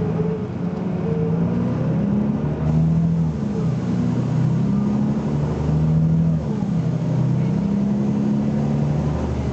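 BMC Belde 220-SLF city bus diesel engine pulling hard under acceleration. The engine note climbs, then drops back a few times as the automatic gearbox changes up.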